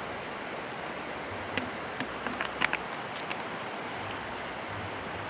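Steady rushing outdoor background noise, with a few short sharp clicks and rustles between about one and a half and three seconds in.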